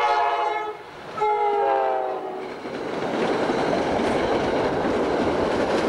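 NJ Transit electric commuter train sounding its chord horn in two blasts, the second falling slightly in pitch as it passes. From about three seconds in, the steady rushing noise of the passenger cars and their wheels going by close at hand.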